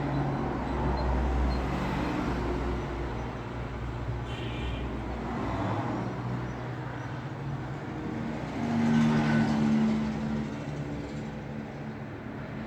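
Road traffic: vehicles passing one after another, their engine and tyre noise swelling and fading, with the loudest one going by about nine seconds in.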